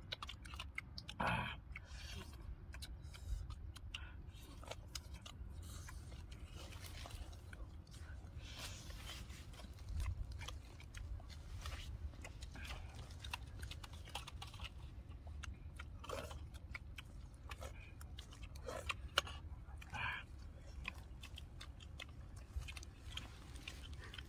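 Two people chewing and biting into roasted duck meat, with scattered light clicks of utensils on a metal tray and a few short, louder sounds of the eaters.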